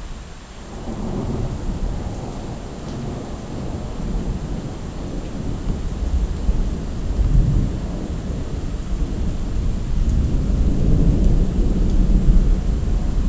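Rolling thunder: a long, deep rumble that builds about a second in and swells again several times, loudest near the end.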